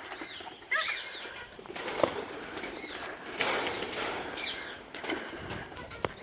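Aviary birds flapping their wings in several short bursts, with a few brief chirps between.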